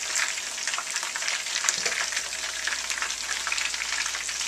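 Bacon-wrapped chicken pieces frying in a skillet with a deep layer of hot grease: a steady sizzle, thick with small crackling pops.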